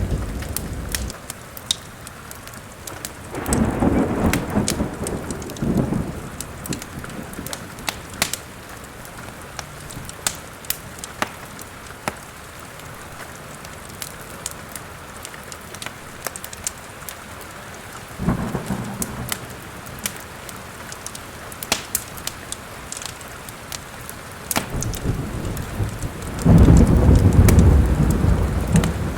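Steady rain with thunder rumbling three times, the last and loudest roll near the end, under the sharp pops and crackles of a wood fire in a fireplace.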